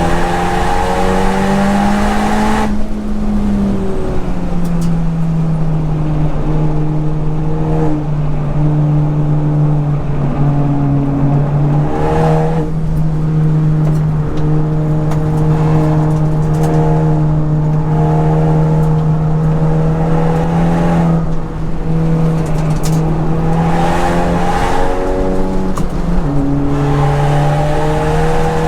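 Modified Honda Civic Type R's turbocharged four-cylinder engine running hard on track, loud and mostly steady in pitch, with brief drops in pitch four times, as at gear changes or lifts of the throttle.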